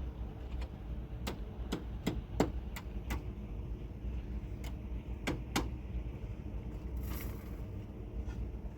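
A run of sharp knocks, about six in quick succession and then three more after a short pause, over a steady low hum.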